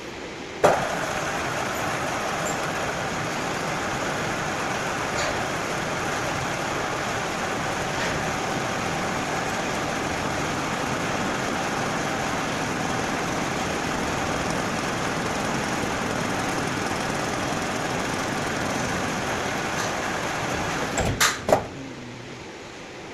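Metal lathe facing a steel part: steady cutting and machine noise with a faint steady tone, starting with a sharp click about a second in. A few sharp knocks near the end, after which the noise drops away.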